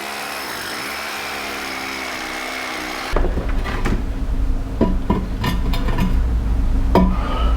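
An electric drill runs steadily for about three seconds and stops abruptly, followed by several knocks and clicks of tools and materials being handled.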